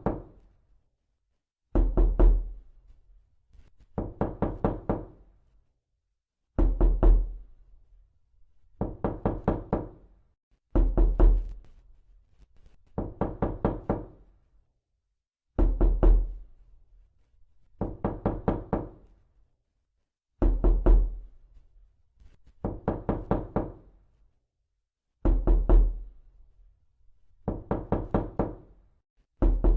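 Repeated knocking: bursts of four or five quick knocks, about one burst every two and a half seconds, with quiet between. Some bursts are louder and carry a deep thud.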